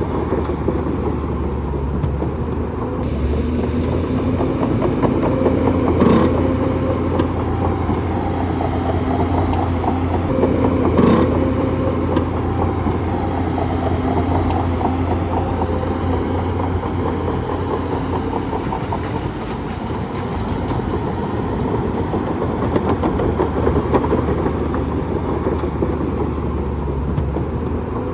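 Bulldozer's heavy diesel engine running steadily with a rattling clatter, and two sharp knocks along the way.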